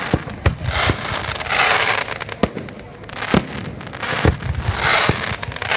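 Aerial fireworks bursting: about a dozen sharp bangs at irregular intervals, with a rushing, hissing noise swelling up twice between them.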